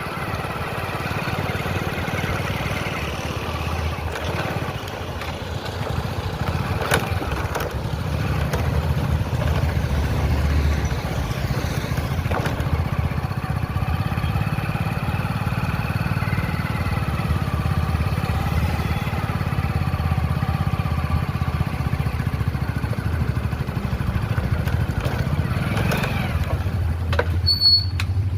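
Motorcycle engine running while riding, its note drifting up and down with speed, along with road noise. A few sharp clicks come near the end.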